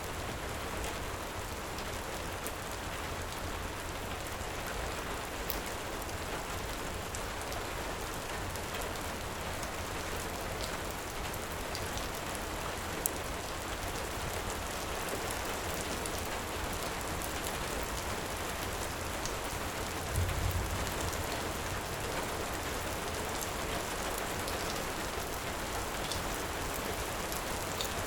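Heavy rain falling steadily, with sparse sharp crackles of a wood fire and a short low rumble about two-thirds of the way through.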